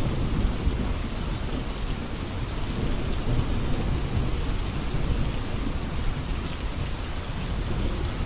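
Steady rain falling, an even hiss with a deep low rumble underneath that eases a little just after the start.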